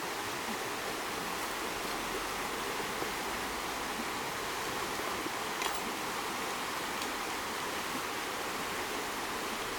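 Steady rush of flowing stream water, with a faint click a little over halfway through.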